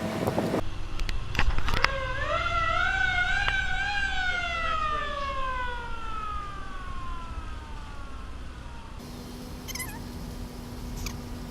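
A siren: one wailing tone that climbs with a slight waver for about two seconds, then slowly winds down in pitch and fades over the next four seconds. A few short clicks come just before it.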